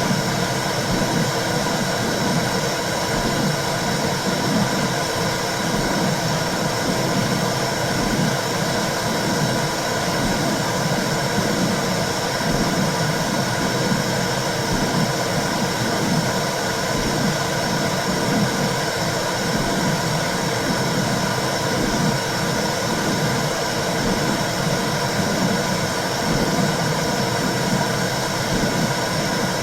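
Womb sound for soothing babies: a steady whooshing noise with a low, rhythmic pulsing beneath it.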